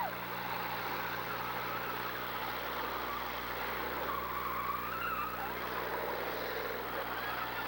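Demolition derby car engines running and revving, with wavering rises and falls in pitch over a steady rumble.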